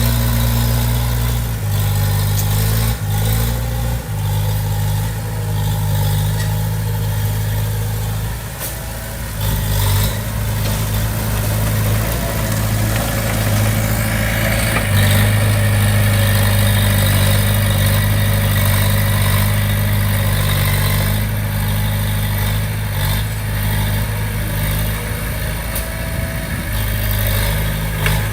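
Diesel engine of a Komatsu D20P crawler bulldozer running steadily, its note shifting several times as throttle and load change while it works, with a brief drop in loudness about eight seconds in.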